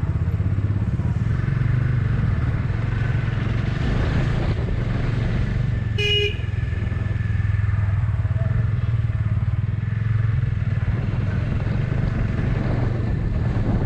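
Motorcycle engine running steadily under way, with a short horn beep about six seconds in.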